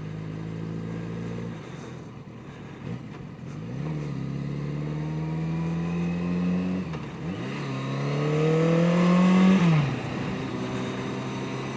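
Yamaha 750 Seca's inline-four engine heard from the moving motorcycle. It starts on a steady note, then the revs climb as it pulls through a gear, drop at an upshift about seven seconds in, and climb again before the throttle comes off near the end.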